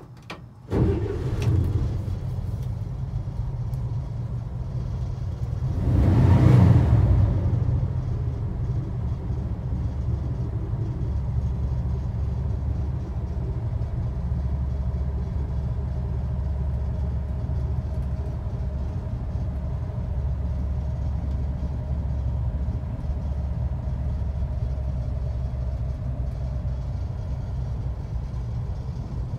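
1962 Chevrolet Corvair van's air-cooled flat-six engine starting up abruptly, revved once briefly about six seconds in, then idling steadily with a low, even rumble.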